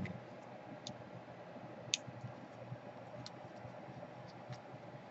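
Faint, irregular light clicks and taps from small laptop parts and wires being handled, over a steady low hum.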